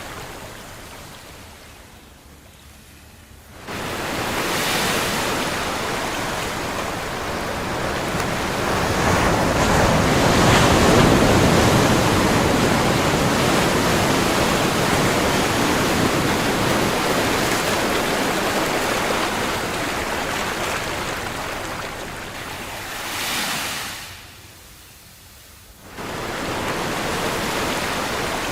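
Ocean surf: a steady wash of waves that swells to its loudest near the middle. It falls quiet twice, near the start and about three-quarters through, and each time the roar comes back abruptly.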